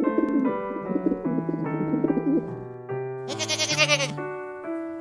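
Rock pigeons cooing over light piano music. About three seconds in, a goat bleats once, loud and wavering.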